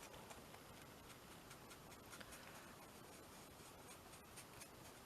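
Near silence with faint light scratching and a few small taps: craft work with a stencil on a small canvas.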